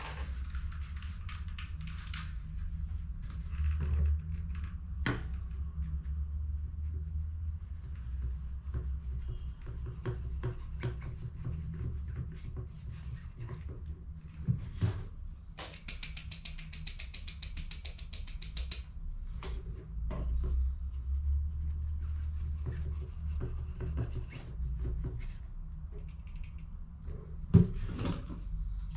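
Hand work on a plastic laser toner cartridge: repeated small clicks, rubbing and scraping of parts, with a quick run of fine ticks in the middle and a sharp knock near the end, over a steady low hum.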